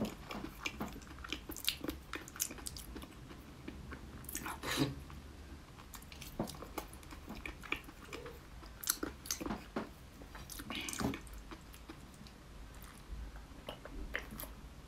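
Close-up chewing of soft, wet braised intestine sausage: irregular mouth smacks and small clicks, with no crunch.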